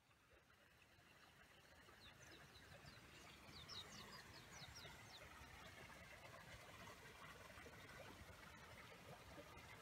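Faint outdoor ambience fading in, with a small bird chirping a quick run of short high notes about two to five seconds in.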